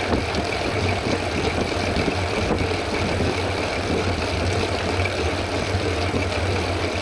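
Steady wind buffeting on the camera microphone with the rumble of a mountain bike's tyres on the road, while riding at speed.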